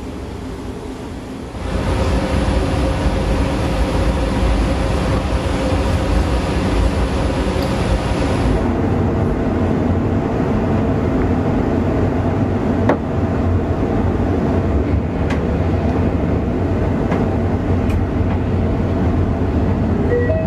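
Inside a passenger coach of a train pulling out of the station: the steady rumble of the coach rolling on the rails, getting louder about two seconds in. A thin high whine runs through the first several seconds and then stops, and a few sharp clicks come in the second half.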